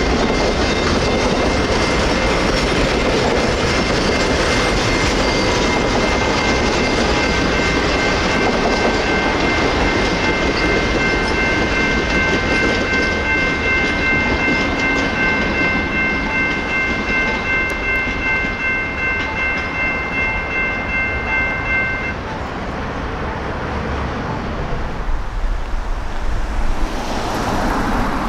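Napa Valley Wine Train passenger cars rolling over a grade crossing, wheels clacking on the rails, while the crossing's warning bell rings steadily. The bell stops suddenly about three-quarters of the way through, and near the end a car drives past.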